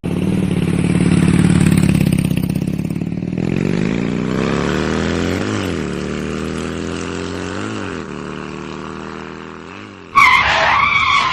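Tractor engine running and revving up, its pitch climbing and then briefly dipping three times as if changing gear. About ten seconds in, a short wobbling cartoon-like sound effect cuts in.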